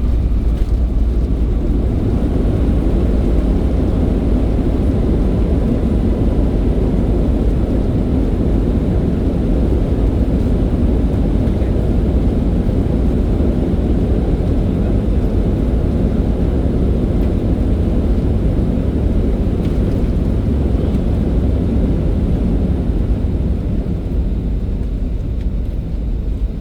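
Airliner cabin noise on landing: a steady, loud low rumble of engines and airflow heard from inside the cabin, easing slightly near the end.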